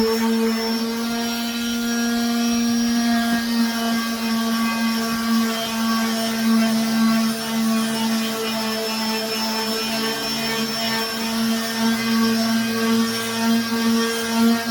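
Electric power sander running steadily on a wooden tabletop, a constant motor hum with a strong low tone and overtones.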